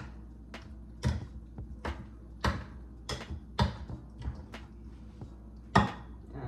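Seasoned chicken being stirred with teriyaki sauce in a bowl: a utensil clicks and knocks against the bowl in an irregular run of sharp taps, about two a second, the loudest near the end.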